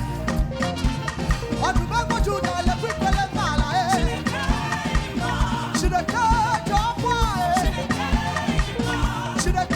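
Upbeat band music with a steady drum beat, bass and a wavering lead melody, with some singing.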